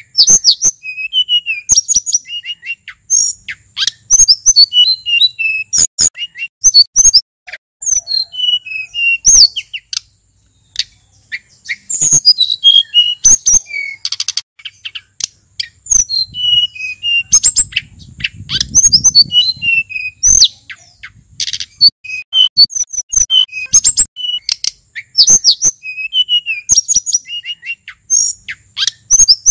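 Male sulingan gunung bird singing: rapid, varied high-pitched chirps, trills and sweeping whistled notes in quick phrases, with short pauses between them.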